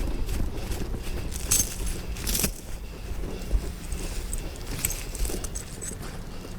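A steel tow chain clinking and rattling in short bursts as it is handled, over the steady hum of a truck engine idling.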